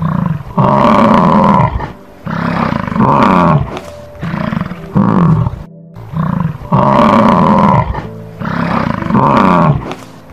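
Big cat roaring: a run of loud roars about every two seconds, the same sequence heard twice, over soft background music.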